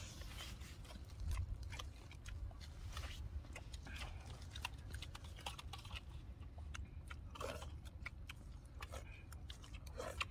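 People chewing and biting cooked duck meat off the bone, with many short wet smacking clicks of lips and mouths.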